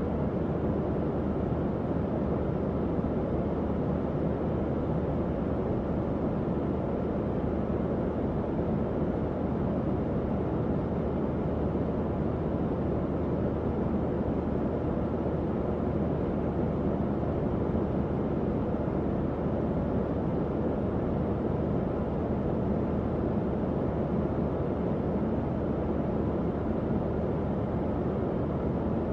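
Tower fan running steadily: an even rush of moving air with a faint low hum underneath.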